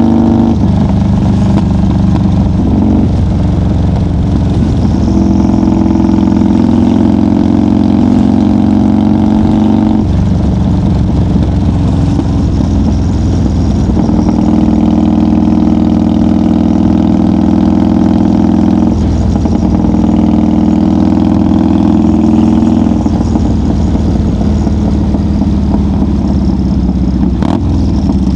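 1990 Harley-Davidson FXR's 1340 cc Evolution V-twin running loud and steady at highway cruising speed, its note shifting several times as the throttle opens and closes.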